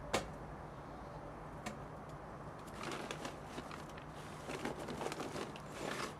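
Faint scattered knocks and rustling of solid fuel being loaded into a backyard furnace, with a sharp click right at the start.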